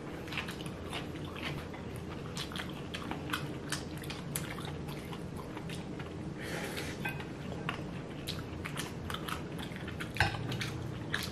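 Close-up chewing and biting of people eating dumplings, with many short wet mouth clicks over a low steady hum.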